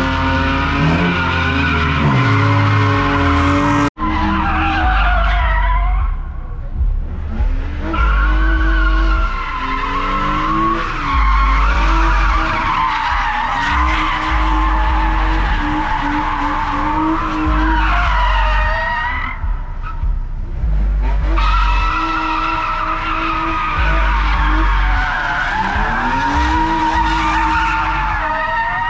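A car engine revving hard and falling back several times, with tyres squealing and spinning throughout. There is a sudden brief break about four seconds in.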